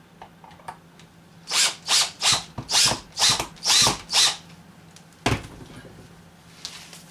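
A drill/driver running a screw further in through a turkey wing into the mount, in about seven short trigger bursts, followed by a single sharp click.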